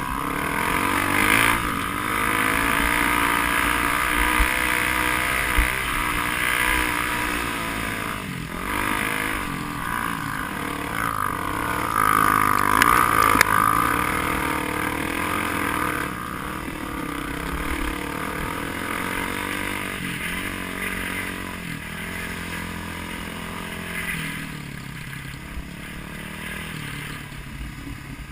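Off-road motorcycle engine running with the throttle opening and closing as it is ridden, pitch rising and falling, loudest around the middle.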